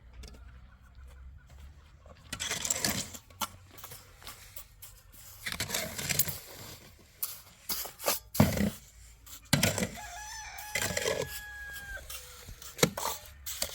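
A rooster crows once, a long drawn-out call about ten seconds in that holds steady and drops at the end, among irregular knocks and rustling.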